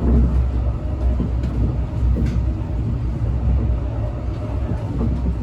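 Brightline passenger train running at speed, heard from inside the coach: a steady low rumble of wheels on the track, with a few faint ticks.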